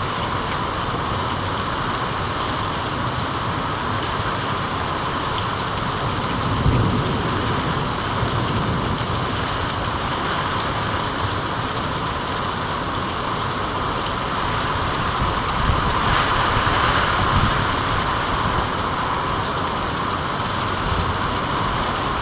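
Steady rain falling, with a low rumble swelling briefly about a third of the way in and again past the middle.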